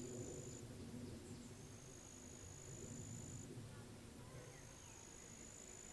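Faint high-pitched insect trills, cricket-like, each held steady for about two seconds and repeating about every three seconds, over a low steady background rumble.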